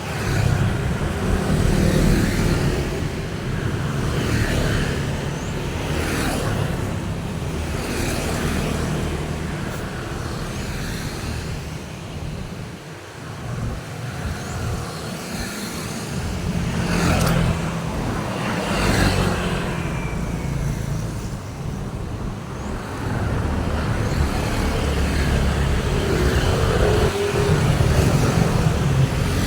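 Road traffic on a main street: a continuous rumble of engines and tyres, with vehicles passing one after another, each swelling and fading.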